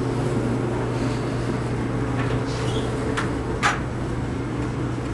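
Clothes dryer running with a steady hum. Two sharp clicks come a little past three seconds in, as a door is opened.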